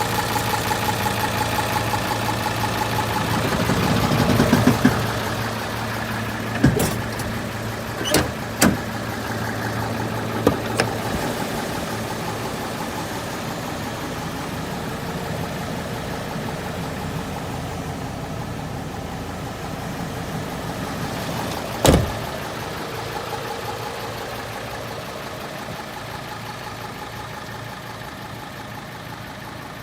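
Hino J08C inline-six diesel engine idling steadily. A few short sharp knocks or clicks sound over it, the loudest about two-thirds of the way through.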